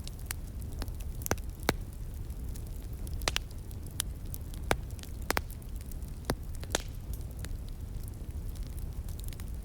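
Fire crackling, with sharp pops at irregular moments, about eight in all, over a steady low rush from a flowing stream.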